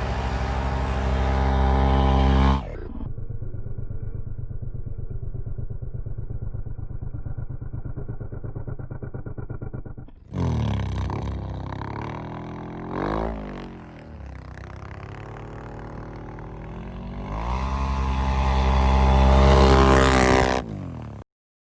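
Can-Am Renegade ATV engines running and revving hard. The sound switches abruptly several times: loud climbing revs, then a quieter steady running, then renewed revving with the pitch rising and falling, building to a loud climb before cutting off sharply near the end.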